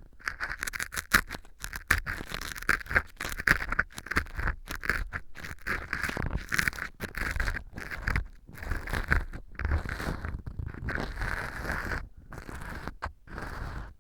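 Ear pick scraping and crackling through dry baked wheat gluten (fu) glued on as fake earwax in a transparent ear-canal tube: a quick run of scratchy strokes with a few short pauses. The fu is stuck on hard with glue, so the pick grinds at it.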